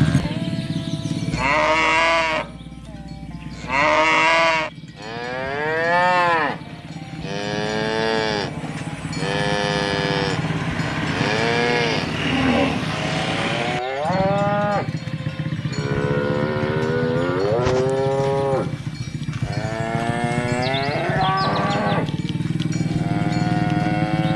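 A herd of cattle mooing one after another: about a dozen long calls, each rising and then falling in pitch, with several overlapping in the second half.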